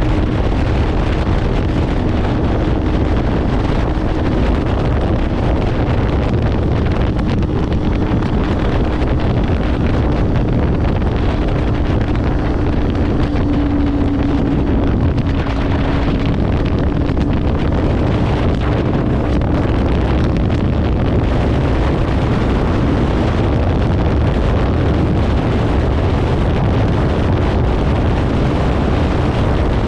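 Kawasaki Ninja 500 parallel-twin engine with a Leo Vince aftermarket exhaust running at a steady cruise, heavy wind rush on the microphone. A steady engine note holds its pitch for the first half and then sinks under the wind noise.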